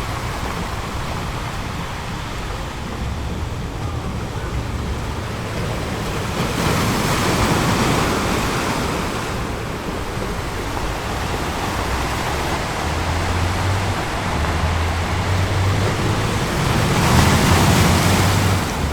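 Ocean waves breaking on a beach: a steady wash of surf with two bigger waves crashing, about seven seconds in and again near the end.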